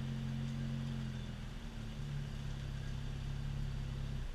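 BMW 335i's N54 twin-turbo straight-six, with aftermarket downpipes and the stock exhaust, idling steadily during a cold start.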